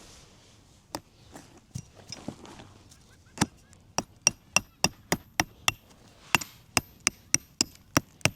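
Repeated hammer blows on metal with a slight ring, about three or four strikes a second, in two runs separated by a short pause.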